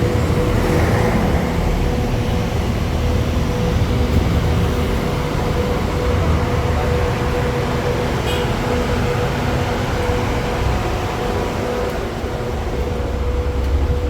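Bus engine idling: a steady low rumble with a constant hum over it.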